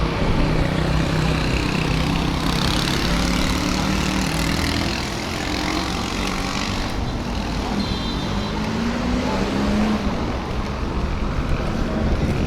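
Road traffic: motor vehicles running past, with a broad rush of passing noise through the first half and a low engine hum that rises in pitch a little after the middle.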